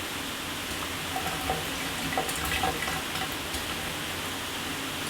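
Shower water spraying: a steady hiss with scattered droplet spatters, a little busier between about one and three and a half seconds in.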